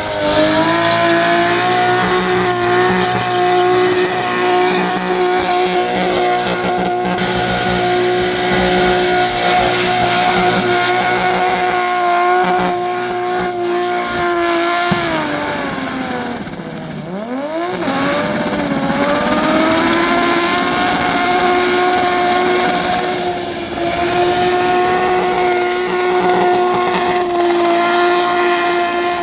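V8 muscle car engine held at high revs in a burnout, with the rear tyres spinning and squealing. The revs hold steady for about fifteen seconds, drop sharply and climb back, then hold high again.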